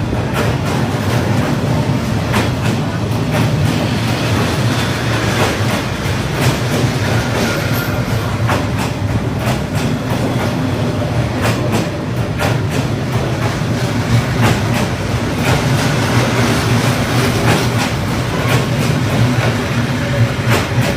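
A train passing close by, a steady rumble with its wheels clicking irregularly over the rails.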